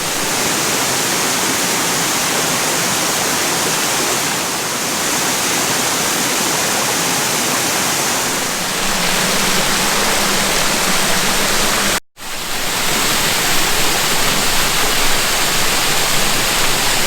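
Waterfall: water cascading over rock in a steady, full rushing noise. About twelve seconds in, the sound cuts out for an instant and comes straight back.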